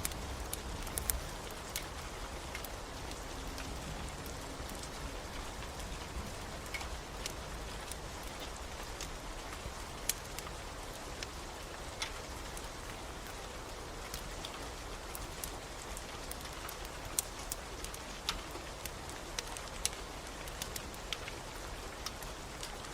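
Steady rain, with scattered sharp pops and crackles of a wood fire burning in a fireplace.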